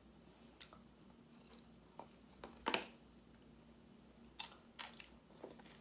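A person chewing a mouthful of kale salad, mostly quiet, with a few short crisp crunches; the loudest comes a little under three seconds in.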